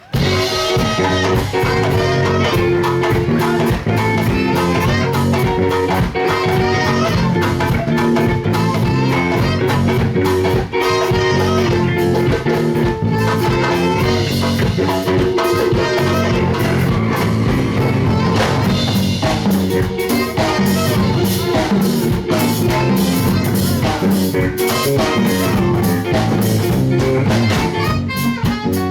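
A band playing live music, with guitar and drum kit, and a steady beat throughout.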